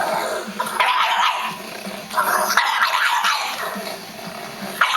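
Pug growling and barking in rough bursts, one starting about a second in and a longer one about two seconds in, over a steady low hum.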